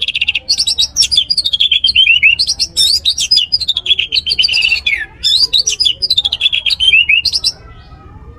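Orange-headed thrush singing a loud, fast, varied song of rapid notes in phrases, many of them falling in pitch, with a short break midway. The song stops near the end.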